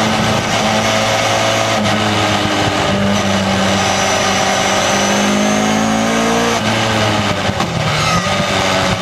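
2-litre Ford Duratec four-cylinder engine of an MK kit car running hard on track. The revs climb, fall sharply about two-thirds of the way through as the car slows, then pick up again near the end.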